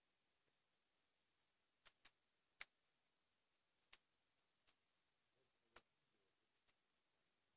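Faint, irregular crackling snaps of a wood fire burning in a homemade fireplace: about seven sharp pops at uneven intervals over a quiet background hiss.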